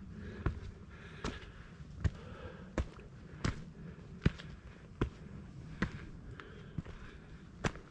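A hiker walking steadily on a mountain trail: a sharp step or tap about every three quarters of a second, over a faint steady background.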